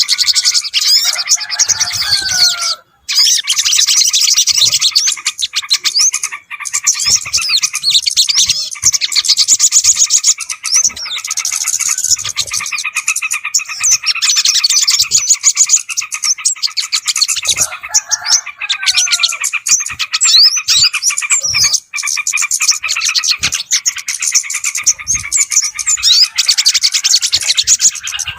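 Bird-lure recording of many small birds, including yellow-vented bulbuls, chirping and trilling densely and without pause. There is a brief break about three seconds in, and the mix repeats as a loop.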